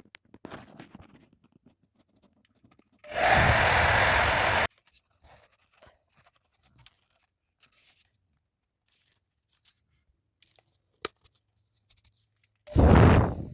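Hair dryer blowing for about a second and a half, then switched off abruptly. After some light handling and a click, it comes on again near the end and keeps running.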